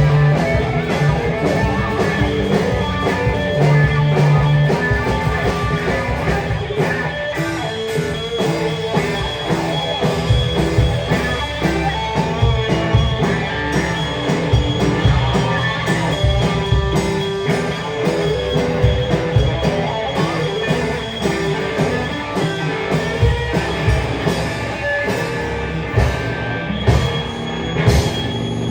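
Rock band playing live, with guitar and a drum kit keeping a steady beat.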